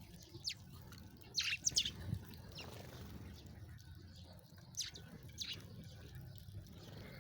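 Sparrows chirping: scattered short, high chirps, with a quick run of several about a second and a half in and a couple more around five seconds.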